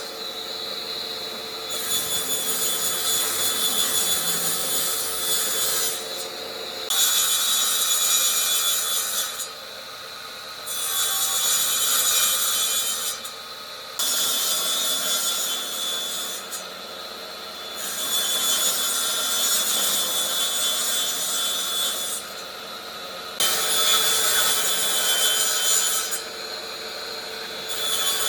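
Power tool abrading wood: a scraping hiss over a steady high whine, changing abruptly in strength every few seconds.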